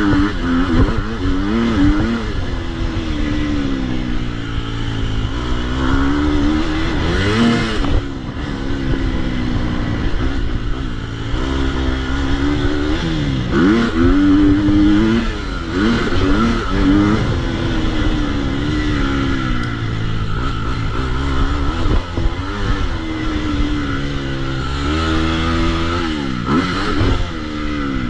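2022 KTM 250 SX-F four-stroke single-cylinder motocross engine being ridden hard. Its pitch climbs and drops over and over as the throttle is opened and shut, with a few sharp falls in revs.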